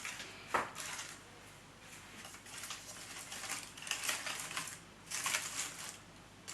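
Rustling and small clicks of handmade flowers on wire stems being handled, bent and pushed into a bouquet, with a sharp click about half a second in.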